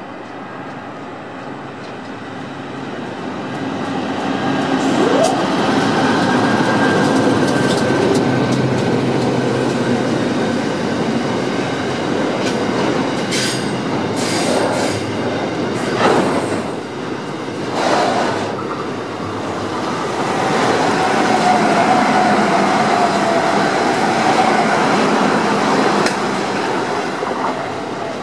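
Freight train passing close by: the diesel locomotives pass first, then a long rake of container wagons rolls past. Sharp wheel clicks come around the middle, and a steady wheel squeal follows in the latter part.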